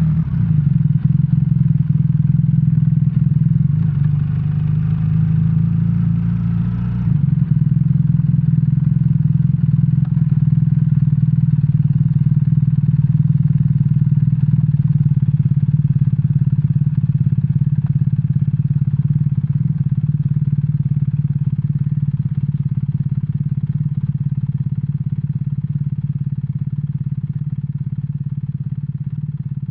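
BMW R1300R's boxer twin engine idling steadily at an unchanging pitch, with a brief shift in its sound about seven seconds in.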